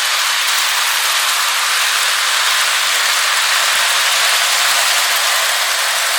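Lionel O scale 2-4-2 Atlantic toy steam locomotive and its cars running on three-rail track: a steady mechanical running noise of the motor and wheels.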